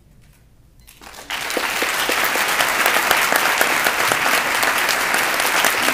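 Audience applause, breaking out suddenly just over a second in and holding steady as many hands clap at once.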